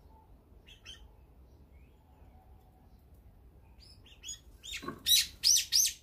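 Songbird calls: a few faint short chirps, then, near the end, a quick run of about four loud calls close by.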